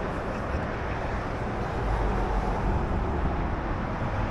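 Steady low rumble of vehicle noise outdoors, with no sudden events.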